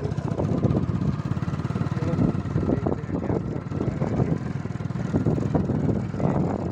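Escort tractor's diesel engine running steadily, its firing beat close and continuous.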